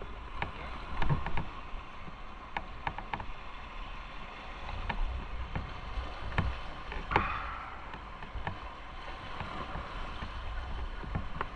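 Light rain starting: scattered raindrops tapping close to the microphone at irregular moments over a steady low rumble.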